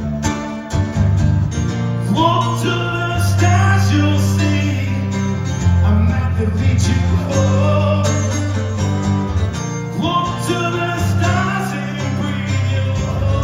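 Live acoustic country guitar playing an instrumental break: strummed chords under a melody line with bending, sliding notes.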